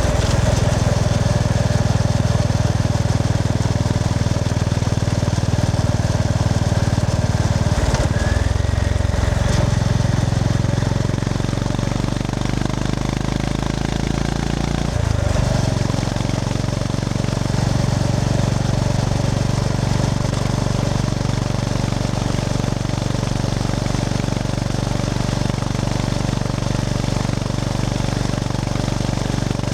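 Honda GB350S single-cylinder engine running under way. Its note climbs, drops suddenly about halfway through as on an upshift, then holds steady.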